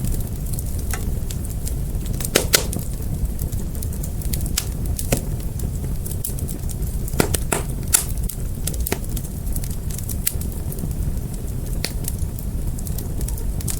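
Fire crackling, with irregular sharp pops and snaps over a steady low rumble of the flames; two louder pops come about two and a half seconds and eight seconds in.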